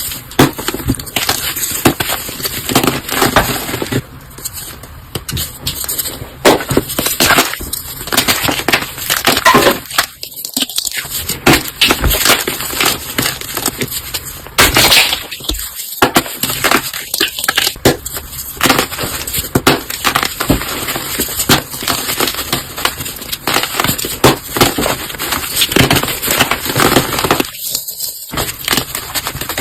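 Close-up, rapid crunching and crackling of brittle material being crushed, in dense overlapping crunches. There are brief pauses about ten, sixteen and twenty-eight seconds in.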